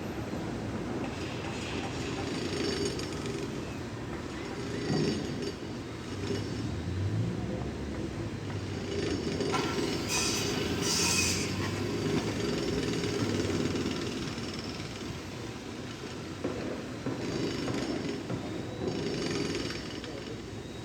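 Building-site work sounds: machinery running unevenly and steadily, with a short burst of harsher, higher-pitched noise about ten seconds in.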